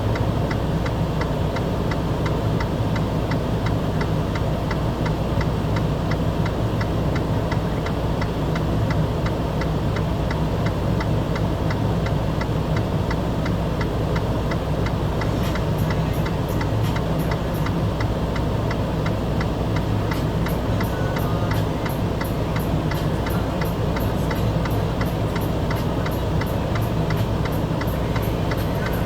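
A vehicle engine running with a steady low hum. Regular ticking carries on over it throughout.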